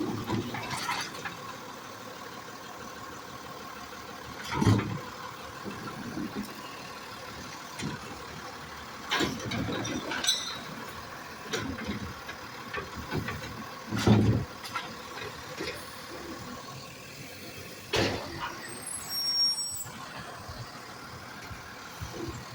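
Recycling truck at work: its engine running steadily, broken by several loud bangs and clatters as bins and recyclables are handled and dumped. A short high squeal comes near the end.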